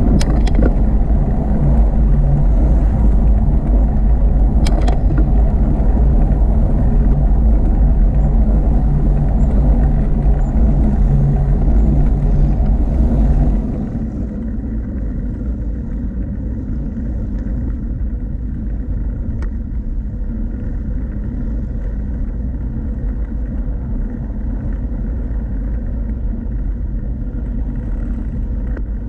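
Low wind rumble on the microphone of a moving bicycle, with the whirr of the ride underneath. About halfway through it drops to a softer, steadier rumble. There are a couple of sharp clicks near the start and one later.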